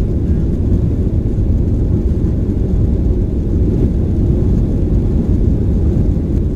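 Steady low rumble of a Boeing 737-900 heard from inside the passenger cabin: its CFM56-7B turbofan engines and the airframe running with an even level throughout.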